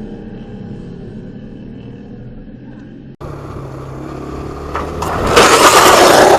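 A motorcycle engine running low and steady. About three seconds in it cuts off abruptly, and a loud rushing noise builds up over the last two seconds.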